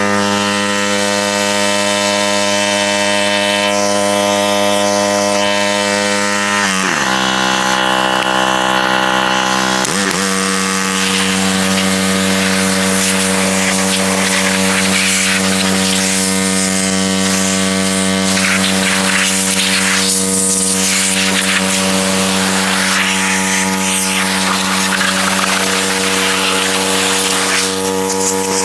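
Small 212cc single-cylinder gas engine of a RYOBI 3300 PSI pressure washer running steadily. Its pitch drops sharply about seven seconds in and comes back up about three seconds later.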